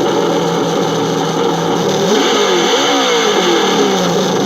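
Radio-controlled truck running. Its motor pitch rises and falls about halfway through as the throttle is worked, over a steady high whine.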